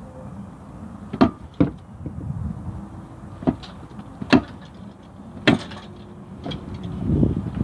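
A handful of sharp knocks and clanks, about five spread a second or so apart, from an engine being shifted and pulled forward out of a car's engine bay, with a louder rumbling scrape near the end.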